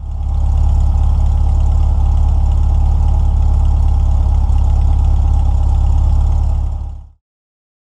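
Air-cooled VW 1600 flat-four engine with a Solex carburettor idling steadily. It stops about seven seconds in.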